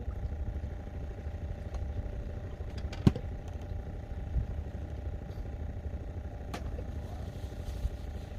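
A steady engine drone over a low rumble. A single sharp knock sounds about three seconds in, and a fainter click comes near the end.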